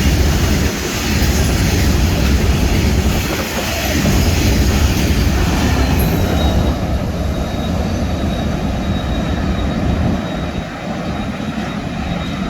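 Train moving on the rails: a loud, steady rumble of the carriages, with the higher hiss falling away about halfway through.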